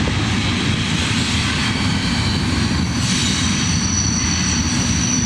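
Diesel locomotive rumbling past at steady loudness, with two high steady squealing tones, typical of wheel or brake squeal, coming in about three seconds in.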